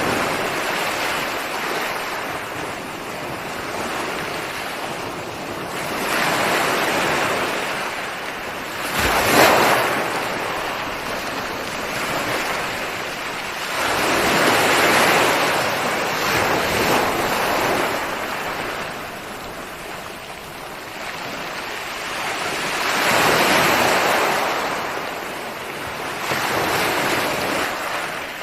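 Ocean waves breaking and washing up a shore, a rushing surf that swells and fades every few seconds. The sharpest, loudest break comes about nine seconds in.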